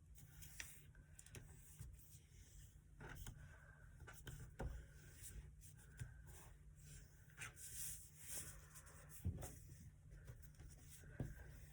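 Faint rustling and creasing of a sheet of paper being folded by hand, with scattered soft clicks and brushes as the fold is pressed down.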